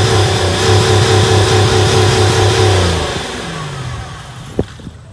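Buick LeSabre's 3.8-litre V6, its crankcase filled with yogurt drink in place of oil, running loudly and steadily, then about three seconds in it cuts out and winds down to a stop. The crew take the stall for running out of gas, though one of them doubts it. A single light tap follows near the end.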